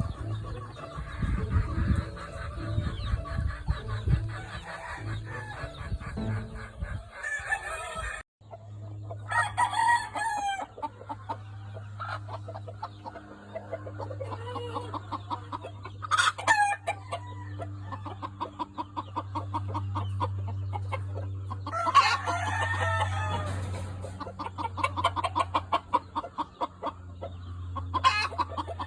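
Gamefowl roosters crowing again and again, with clucking between the crows, over a steady low hum.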